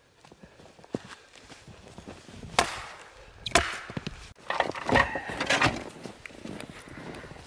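Firewood being chopped: four sharp strikes on wood over a few seconds, the second the loudest, with light rustling between.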